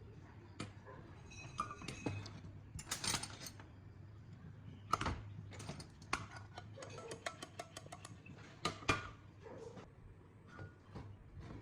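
Small hard parts and tools being handled during hands-on repair work: irregular sharp clicks and light metallic clinks, with a quick run of clicks about seven seconds in, over a faint steady low hum.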